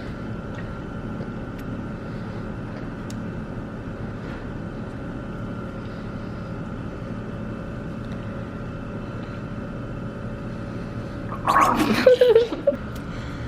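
A person gargling a mouthful of drinking-fountain water, loud and short, near the end. Before it there is only a steady room hum.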